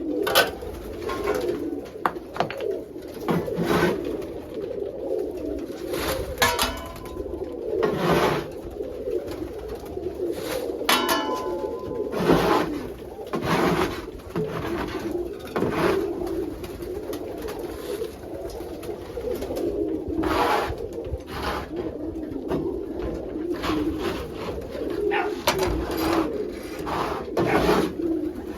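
Many domestic pigeons cooing together in a coop, a continuous low murmur of overlapping coos, with scattered sharp clicks and rustles now and then.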